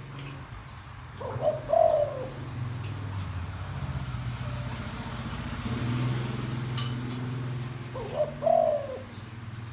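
Deep-voiced spotted dove cooing: two short coo phrases, one about a second in and one near the end, the kind of call used to rouse decoy doves. A low hum sits between them.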